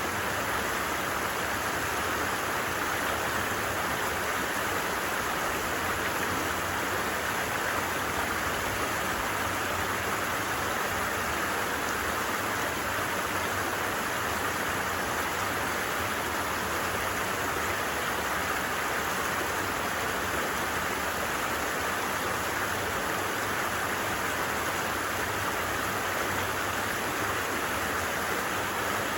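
Creek water flowing steadily, an even rushing that does not change.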